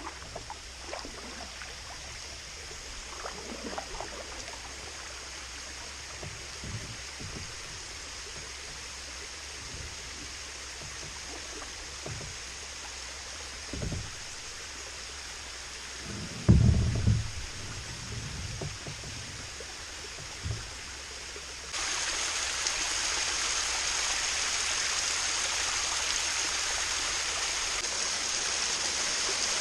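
Kayak on the water, with scattered light knocks and one loud hollow thump against the hull. About three quarters of the way through, a steady rush of running water comes in abruptly and carries on.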